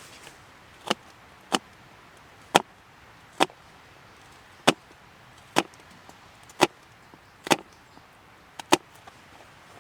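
Hatchet chopping firewood: about ten sharp strikes, roughly one a second and unevenly spaced, ending with a quick double strike.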